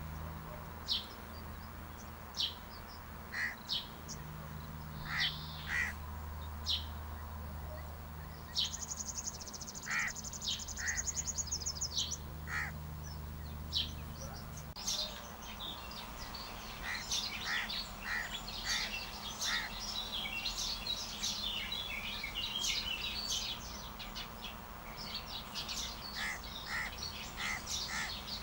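Small birds chirping: many short, high calls, with a fast high trill about nine seconds in that lasts some three seconds, and denser chirping in the second half. A low hum underneath stops about fifteen seconds in.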